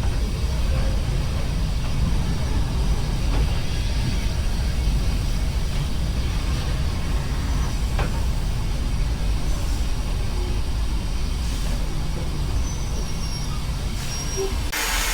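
Steady low rumble of a train on the move. Right at the end it cuts abruptly to a steady hiss.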